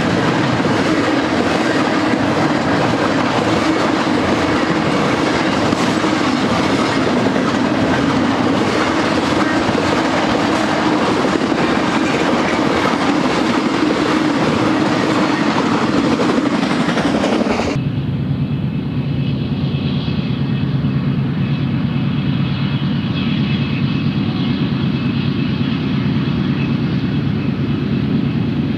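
Double-stack intermodal well cars rolling past close by: a loud, steady rumble of steel wheels on rail with clickety-clack. About two-thirds of the way through it cuts abruptly to a lower, steadier hum with a few steady tones, from a second train heard at a distance.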